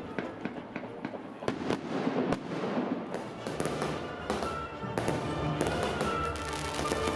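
New Year's fireworks bursting and crackling in a rapid run of sharp bangs, mixed with music. The music grows more prominent from about halfway through.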